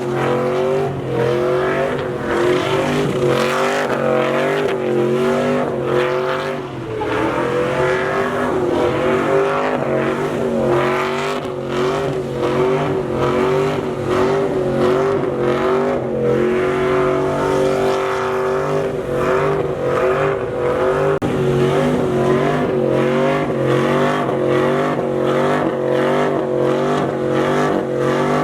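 Truck engine held at high revs in a burnout, its pitch wavering quickly up and down over and over, with tire squeal.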